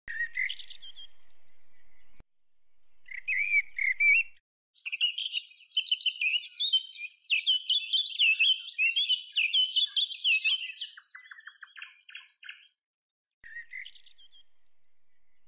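Small birds chirping and twittering in several separate stretches, with a long run of rapid song in the middle. Each stretch cuts off abruptly.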